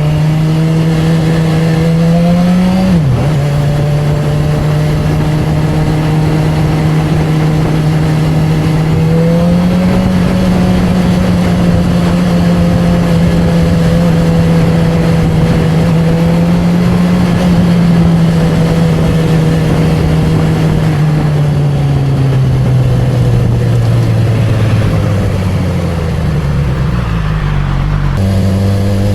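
Honda CB1000R's inline-four engine and exhaust under way. The engine note rises, drops suddenly about three seconds in at a gear change, then holds steady at cruising revs for a long stretch. Near the end it falls slowly as the bike slows, then climbs again.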